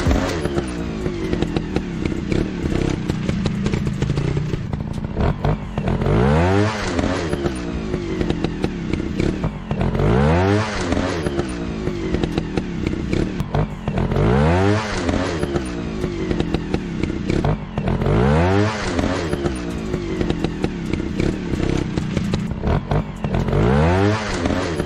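Motorcycle engine revving over and over: a rising rev roughly every four seconds over a steady running drone, in a very regular, looped-sounding pattern.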